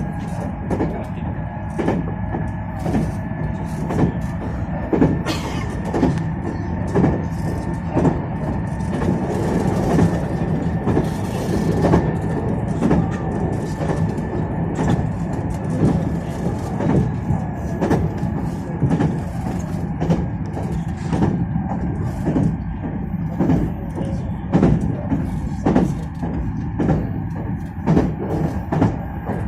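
Meitetsu 2200 series electric train running at speed, heard from inside the car: a steady low rumble with frequent irregular clacks from the wheels over rail joints, and a faint steady high whine.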